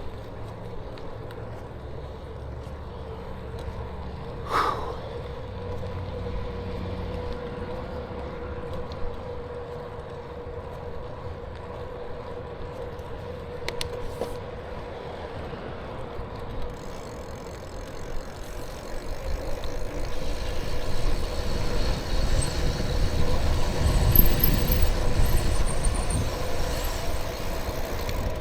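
Riding noise from a moving bicycle: tyres rolling on pavement and wind on the microphone, with a faint steady hum. There is a short sharp sound about four and a half seconds in, and the rumble and wind grow louder over the last third.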